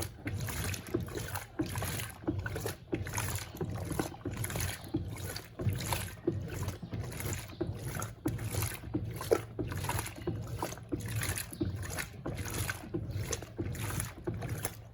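Electrolux Turbo Compacta LTC07 top-loading washing machine agitating a load of clothes in water: a rhythmic swish and slosh about twice a second over a steady motor hum.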